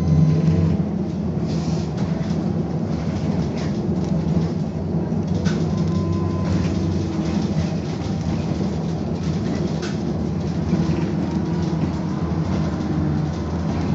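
BKM-221 trolleybus under way, heard from inside the passenger cabin: a steady low hum of the running gear and tyres, with a couple of sharp knocks or rattles about five and a half and ten seconds in.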